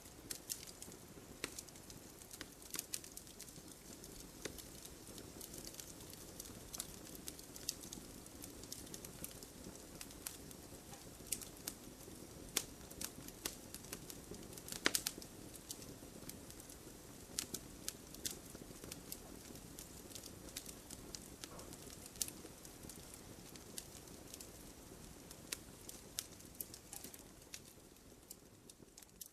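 Wood fire crackling in a fireplace: irregular sharp pops and snaps over the soft steady hiss of the flames. The loudest pop comes about halfway through.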